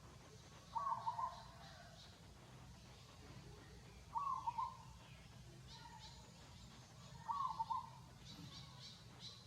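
A short animal call, about half a second long, repeated at an even pace roughly every three and a half seconds, three times, with faint high chirps near the end.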